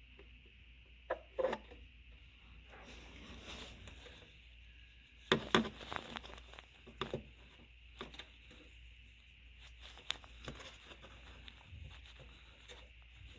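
Scattered light clicks and knocks of hand work on metal parts, with a louder cluster about five seconds in, over a faint steady hum.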